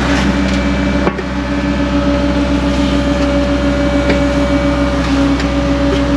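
Excavator's diesel engine and hydraulics running steadily under digging load, with a constant whine over a low rumble and a few faint knocks from the bucket working in rocky soil.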